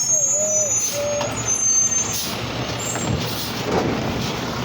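Garbage truck working at the curb: its diesel engine runs steadily, with a few short, wavering squeals from the truck in the first half.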